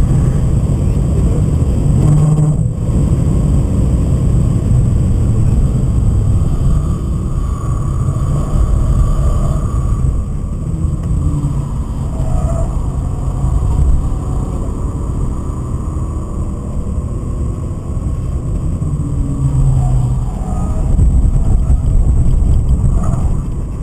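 BMW 528i's M52B28 straight-six engine running hard on track, heard inside the cabin together with road and wind noise. The engine note rises and falls, and it gets louder again near the end.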